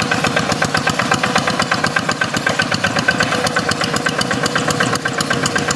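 Quick G1000 Boxer hand tractor's single-cylinder diesel engine running steadily, a fast, even chug of about eight or nine beats a second.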